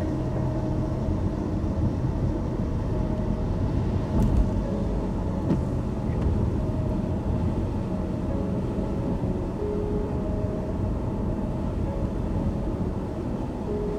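Car driving in the rain: steady road and tyre noise on a wet road. Two short clicks come about four and five and a half seconds in.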